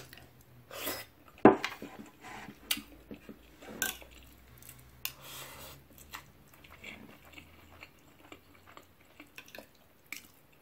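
A person chewing a mouthful of chicken curry and rice, with scattered short clicks of cutlery against a plate; the sharpest click comes about one and a half seconds in.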